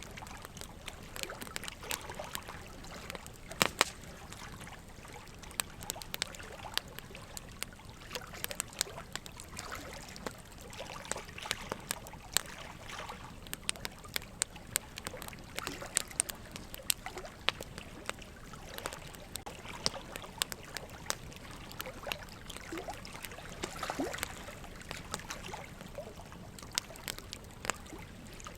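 Wood campfire crackling, with irregular sharp pops and snaps over a low steady hiss; a couple of louder pops about four seconds in.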